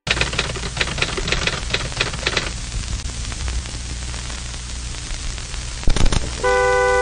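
Outro sound effect: irregular scratchy clicks over a steady hiss and low hum, thinning out after about two and a half seconds. A brief crackle comes near six seconds, then a held bright chord of several tones starts about six and a half seconds in.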